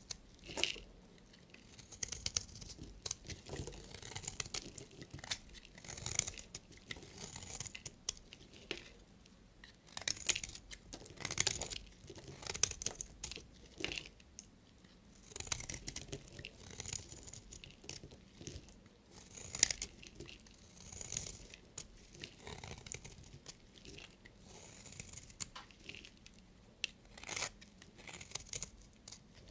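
Knife cutting into bars of soap: a run of short, sharp cuts at irregular intervals, roughly one every second or two.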